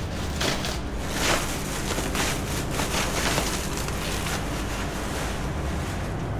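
Steady rushing noise over a low hum, with a few light knocks and rustles in the first half.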